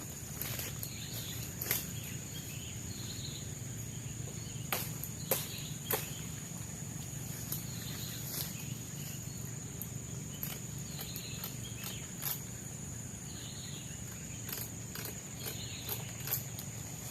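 A steady, high-pitched insect drone of the tropical forest, with scattered footsteps and sharp cracks of someone walking through the undergrowth.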